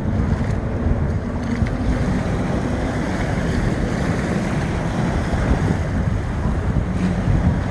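Wind buffeting the microphone over the steady wash of surf at an inlet, with a faint boat engine drone underneath.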